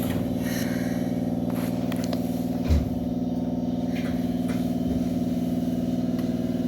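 Keikyu 600 series electric train running, with a steady hum of traction motors and inverter. There is one short low thump about two and a half seconds in.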